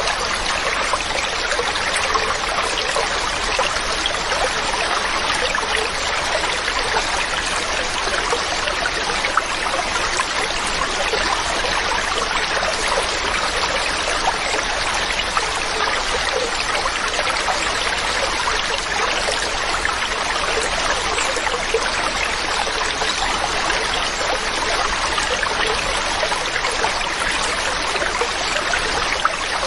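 Mountain stream running steadily over rocks, an even rush with fine splashing and trickling.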